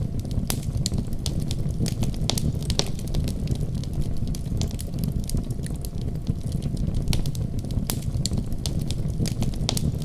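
Wood fire burning in a fireplace: a steady low rumble of the flames with frequent sharp, irregular crackles and pops of the burning wood.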